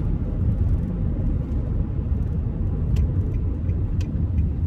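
Steady low road-and-engine rumble inside a moving car's cabin, with two faint clicks about three and four seconds in.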